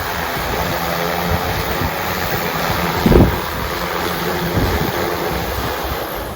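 Multirotor agricultural spray drone with three-blade propellers humming in flight, with strong gusty wind buffeting the microphone and a louder gust about three seconds in. The whole sound falls away near the end.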